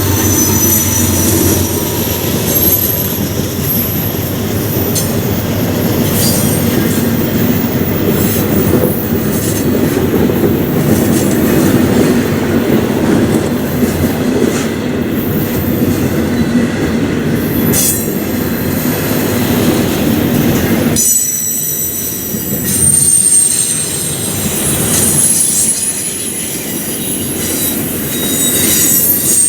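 Freight train rolling past, its steel wheels squealing on the rails over a steady clatter of wheels on track. The deep rumble drops away abruptly about 21 seconds in, while the high wheel squeal carries on.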